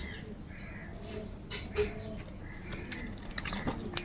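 Birds calling: crows give harsh caws while pigeons coo in low, bending notes. Sharp clicks and taps are heard about a second and a half in and again near the end.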